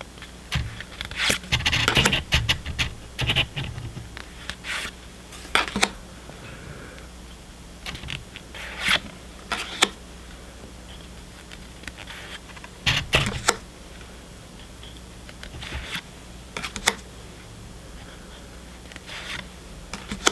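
Pokémon trading cards being handled and flipped through: irregular short scrapes and sharp clicks of card stock sliding and snapping against card, busiest in the first few seconds and then every few seconds.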